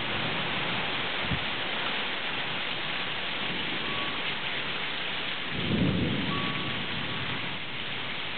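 Heavy rain pouring down steadily. A low rumble of thunder swells and fades about six seconds in.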